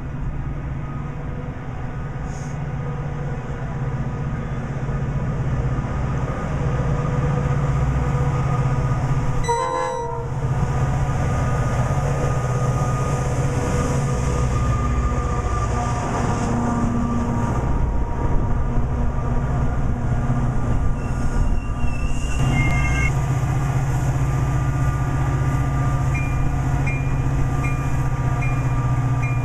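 Metra commuter train, a diesel locomotive with bilevel passenger cars, running past along the platform with a steady low engine drone and held tones. Near the end a bell starts ringing at an even beat.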